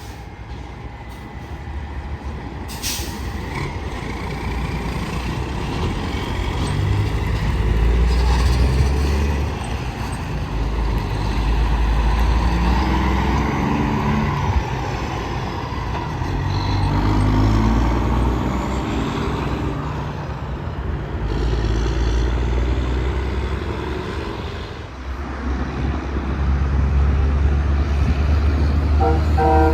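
Heavy trucks passing one after another on an interstate highway, their diesel engines and tyres swelling and fading several times. A brief sharp noise comes about three seconds in.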